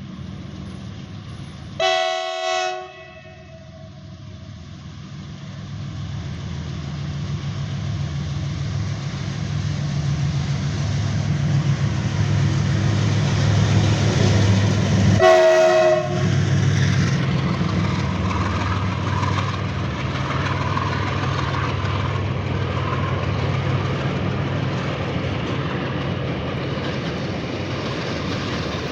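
GE WDG-4G diesel locomotive running through at speed with a container freight train. Its horn sounds for about a second about two seconds in, then the engine drone grows louder as it approaches. It gives a second, shorter horn blast about halfway through, and the wagons clatter past after it.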